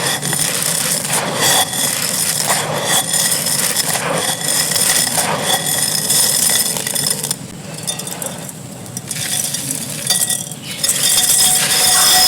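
Dry fired clay and gritty sand being crumbled, with a dense crunching crackle and hard little clinks of clay fragments. It quietens for a few seconds past the middle, then grows louder near the end.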